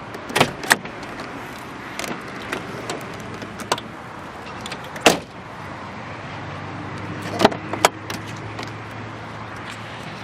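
Car keys jangling and a Volkswagen Bora's door being opened and shut: a few sharp clicks and knocks, the loudest a single clunk about five seconds in, and two more clicks about seven and a half seconds in.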